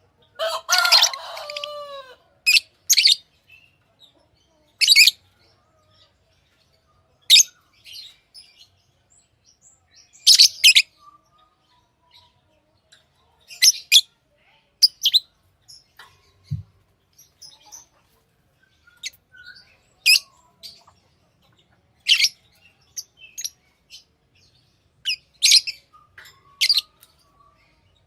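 Pet lovebirds giving short, sharp high-pitched chirps, singly or in quick pairs every second or two, with a longer burst of chattering calls about a second in.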